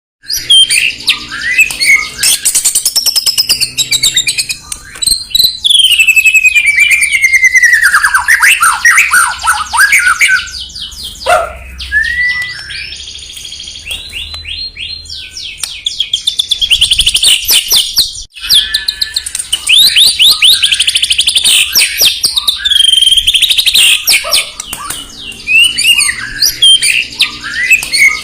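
White-rumped shama (murai batu) singing loudly: a continuous, varied run of clear whistles, swooping pitch glides and rapid trills, easing off for a few seconds about halfway through.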